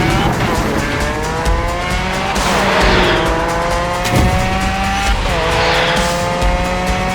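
Vehicle engine sound effect revving up three times in a row, each rev a long, slowly rising whine, over background music.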